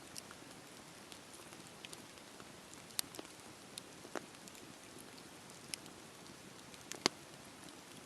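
Campfire burning: a steady soft hiss of flames with scattered sharp crackles and pops of burning wood, the loudest about three seconds in and again near the end.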